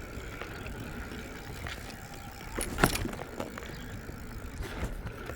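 Steady low rumble of wind and riding noise on the phone's microphone while riding along a road, with one sharp knock or rattle about three seconds in.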